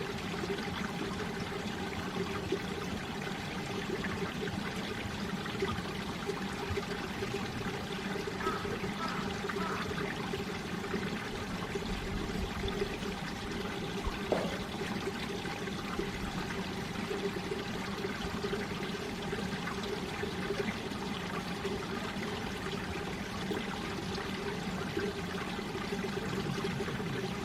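Mountain valley stream flowing steadily, water pouring and trickling without a break.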